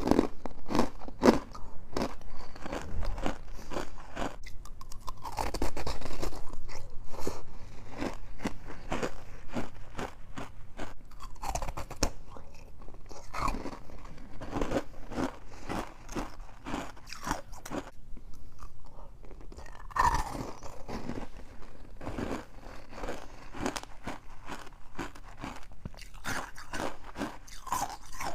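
Freezer frost soaked in passionfruit juice being bitten and chewed: dense, irregular crunching that goes on without a break, with some wet mouth sounds between the crunches.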